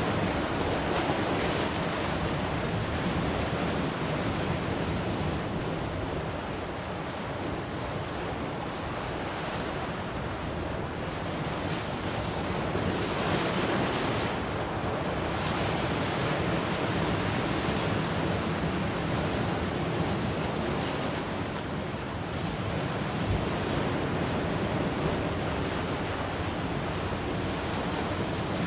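Ocean surf washing in continuously, a steady rush of breaking waves that eases off for a few seconds and then swells up again about halfway through.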